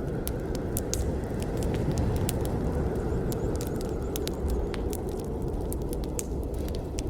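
Campfire burning: a steady low rumble of flames with frequent, irregular sharp crackles and pops from the burning wood.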